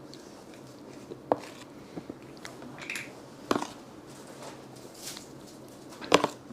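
A person eating close to the microphone: a handful of short, separate mouth and chewing sounds and small clicks, a second or so apart.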